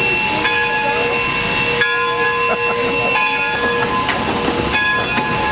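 Steam locomotive standing and hissing steam, with several steady whistling tones over the hiss that break off and resume a few times.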